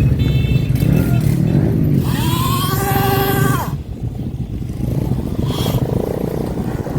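Motorcycle and dirt bike engines running. About two seconds in, one revs up high and holds it for about a second and a half before dropping off.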